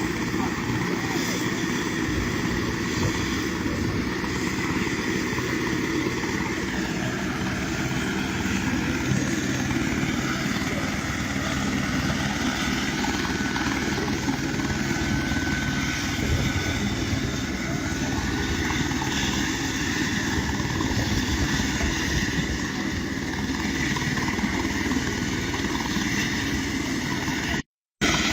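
Helicopter engine and rotor running steadily, with a fine rhythmic beat at the low end. The audio drops out briefly near the end.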